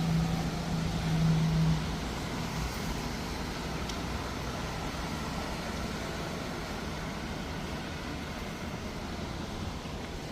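City street traffic: a vehicle's steady low engine hum fades away about two seconds in, leaving an even hiss of traffic.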